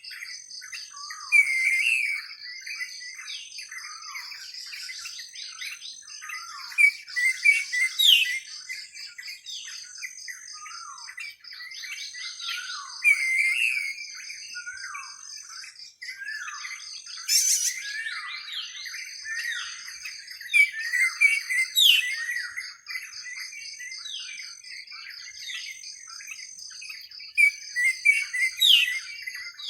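Several birds chirping and calling in a forest, with many short chirps and quick falling whistles coming and going throughout. Under them runs a continuous, evenly pulsing high insect trill.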